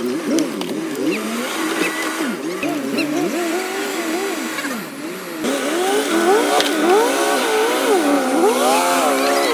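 Pickup truck engines revving up and down over and over, several pitches rising and falling at once, as the trucks strain to pull a stuck skid-steer loader out of the water. The revving gets louder about halfway through.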